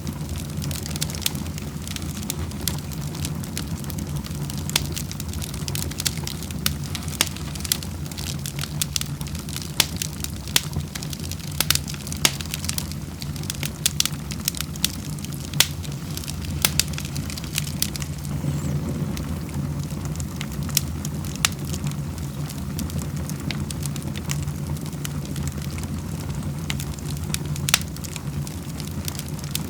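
Wood fire crackling in a fireplace: frequent sharp pops and snaps, irregularly spaced, over a steady low rumble.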